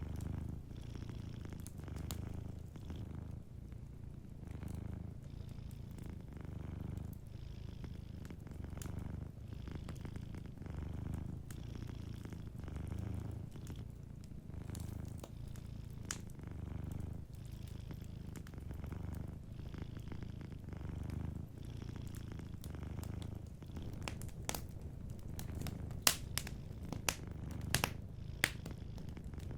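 Domestic cat purring steadily, a low hum that swells and fades with each breath, over a wood fire crackling with sharp pops that come thicker near the end.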